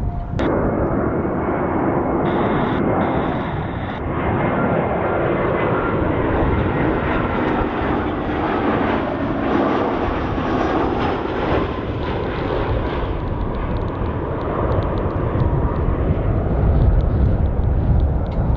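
Airbus A320 jet airliner passing on its landing approach: steady jet engine noise with a high whine, the low rumble building near the end.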